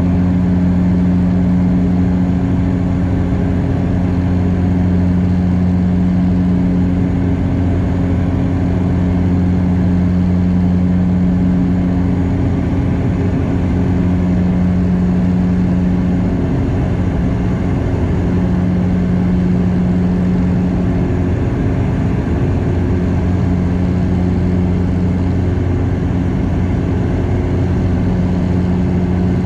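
Cabin noise of a Bombardier DHC8-Q400 turboprop in flight: the steady low drone of its propellers and engines, with a hum that swells and fades every few seconds.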